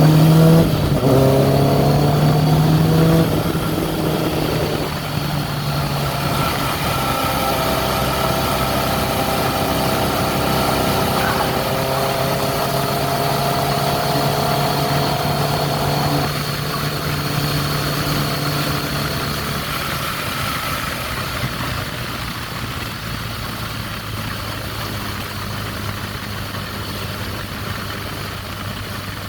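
2002 Kawasaki ZX-6R's carbureted inline-four engine held at raised revs for the first few seconds, then dropping back in steps and idling, with a weird sound that the owner takes to be carburettor or fuel related after the bike sat unused.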